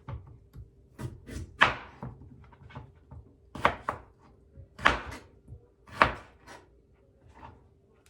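Irregular kitchen knocks and clatters as carrot is added to seasoned chicken, about seven sharp hits with the loudest around the middle, over a faint steady hum.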